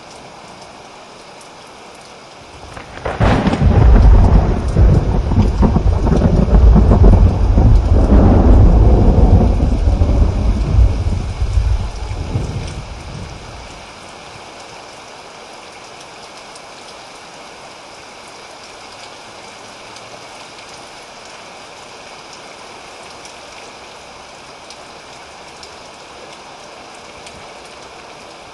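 Steady rain hiss with a long roll of thunder: a deep rumble swells about three seconds in, peaks twice, and dies away about ten seconds later, leaving only the rain.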